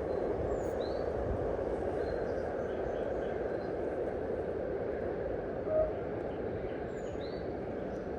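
Steady rushing of flowing water, with faint short bird chirps about a second in and again near the end, and a brief higher note just before six seconds in.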